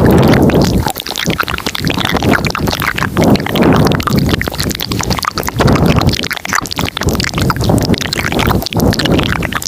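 Layered ASMR mouth sounds close to the microphone: dense wet clicks and crackles over breathy swells that rise and fall every second or so.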